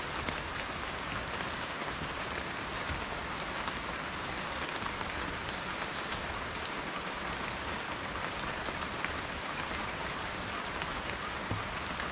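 Steady rain falling, a continuous even hiss with faint scattered ticks of individual drops striking a surface.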